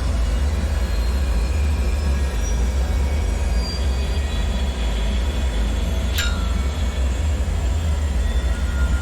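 Dark ambient bunker drone: a heavy, steady deep rumble with faint high, thin ringing tones drifting over it. About six seconds in, a quick high sweep falls in pitch and settles into a short held tone.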